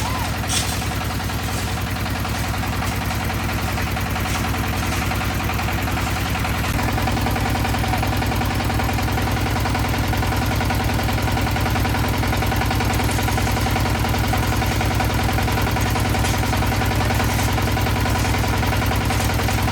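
Concrete mixer's engine running steadily with a rapid, even chugging; its sound shifts about seven seconds in.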